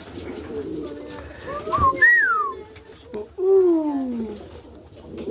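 Domestic pigeons (Birmingham Rollers) cooing, a steady low murmur of coos with two sliding, falling calls near the middle.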